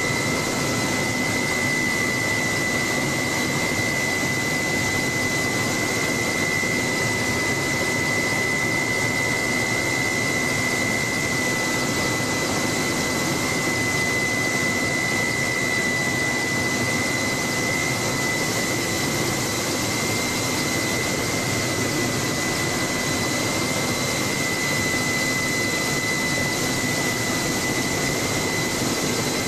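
Helicopter in flight: steady engine and rotor noise with a constant high whine over it, unchanging throughout.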